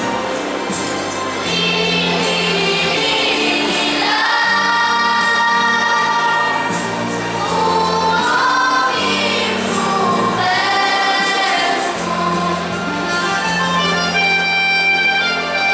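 A choir singing a Polish Christmas carol, with long held notes over a steady low accompaniment.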